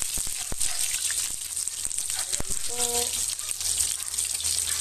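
Eggplant slices frying in hot oil in a wok: a steady sizzle and crackle, with a few sharp knocks of the spatula against the pan as the pieces are turned.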